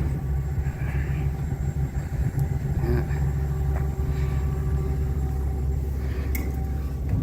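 Ford E-450 box truck's engine idling: a steady low rumble.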